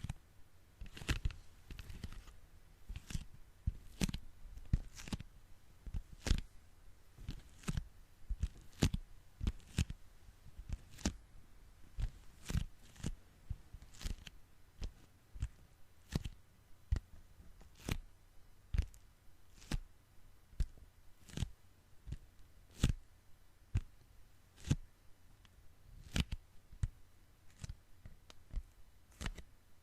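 Sticky hands pressed together and pulled apart, giving sharp sticky pops and crackles at an irregular pace of one to three a second.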